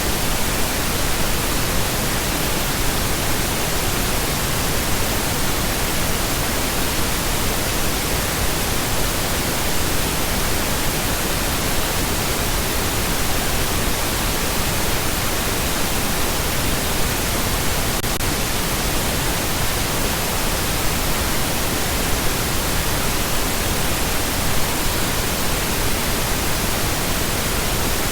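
Steady, continuous pink noise: an even hiss spread across all pitches, unchanging throughout.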